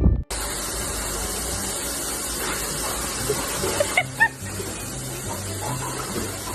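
Steady hiss of running water, with faint music underneath and a few short high chirps about four seconds in.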